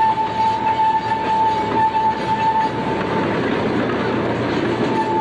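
Train riding along with a steady rumble and rattle of the cars. A steady high squeal over it drops away about two and a half seconds in and comes back near the end.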